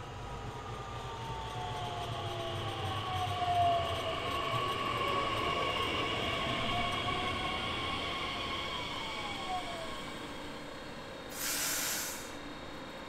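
Train running past, its wheels squealing in several sliding tones as the sound swells and fades. A short hiss about eleven seconds in.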